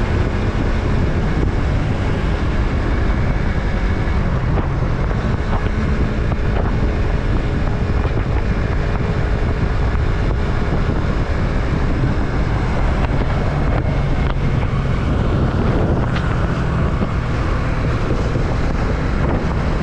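Yamaha MT-03's parallel-twin engine running at a steady speed while riding, with heavy wind noise on the microphone.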